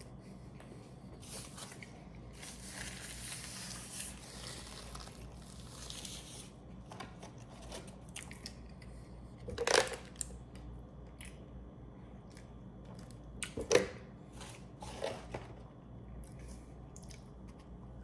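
Close-miked chewing of a Double Big Mac burger, with soft wet squishing mouth sounds and two sharp, louder mouth smacks, about ten and fourteen seconds in.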